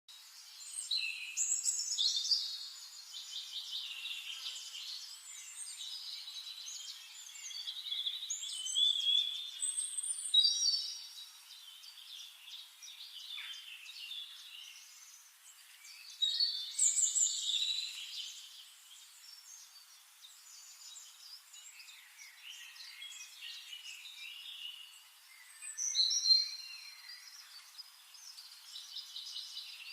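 Songbirds singing and chirping, several overlapping songs of quick trills and whistled phrases, coming in louder bursts every several seconds over a quieter background of distant calls.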